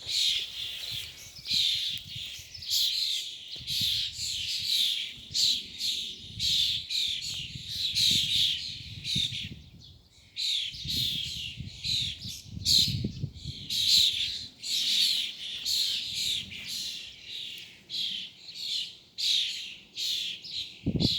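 A group of birds calling over and over, a chorus of short, high chirps that sweep downward, about two a second, with a brief lull about ten seconds in.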